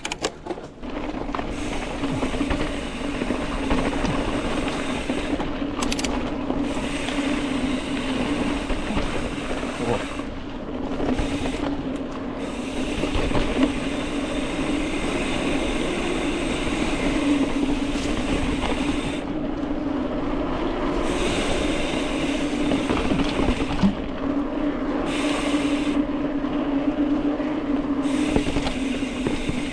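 Mountain bike rolling fast along a dirt trail: steady tyre and wind noise with a constant hum, and small rattles and clicks from the bike over bumps.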